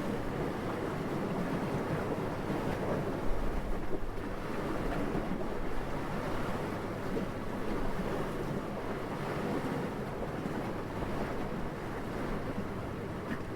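Steady wind blowing, an even rushing noise that swells and eases slightly, with two brief stronger gusts about three to four seconds in.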